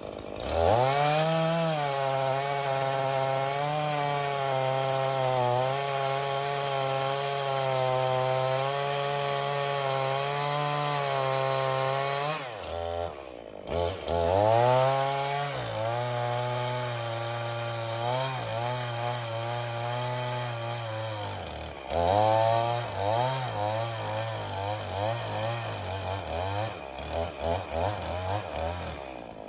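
Two-stroke chainsaw bucking a poplar log at full throttle: it revs up about half a second in and holds steady, eases off briefly twice, once about a third of the way through and once about two-thirds through, and throttles back in each time. Near the end the engine speed wavers in quick dips as it works in the cut.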